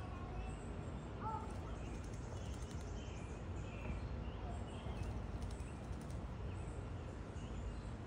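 Faint short bird chirps over a steady low outdoor rumble, with a few faint clicks.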